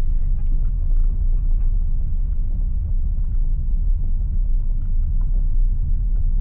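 Steady low rumble of a car on the move, heard from inside the car.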